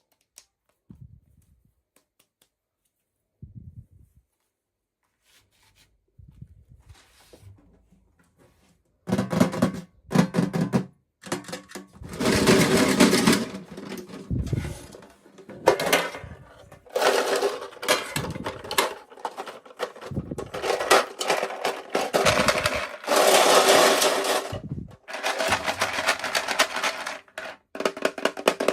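Packaging being handled and opened for miniature toys: a few faint clicks, then from about nine seconds in loud, crackly crinkling and rustling in bursts of a second or two, with sharp clicks mixed in.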